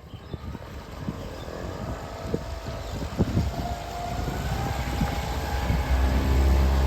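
Boat's outboard motor speeding up, getting louder and rising in pitch, with a strong low drone building near the end as the boat gets under way.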